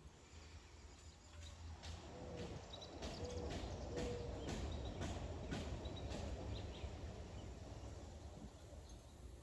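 A wind gust swelling and easing, heard as a low rumble, with a run of sharp taps about twice a second during the strongest part and a few short bird chirps.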